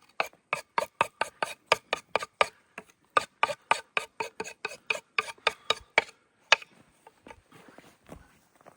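Quick, regular rasping strokes, about three to four a second, with a brief break near three seconds; they stop about six seconds in, and one last stroke follows.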